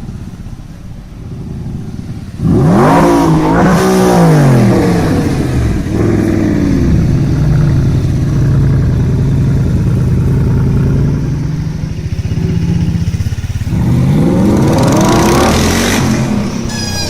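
Audi R8 engine and exhaust revved from idle: two quick blips a couple of seconds in, then held at a steady raised speed, then revved up and let fall again near the end.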